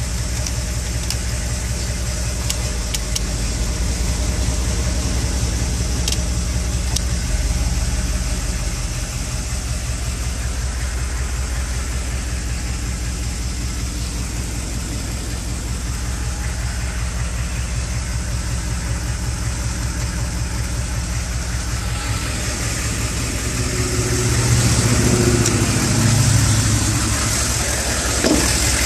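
Chevrolet 6.5L turbo-diesel V8 idling steadily, with a louder stretch about 24 to 27 seconds in.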